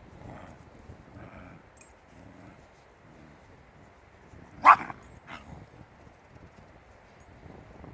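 A Shiba Inu barks once, loud and sharp, a little past halfway, followed by a shorter, softer bark, with faint soft sounds in the quiet before.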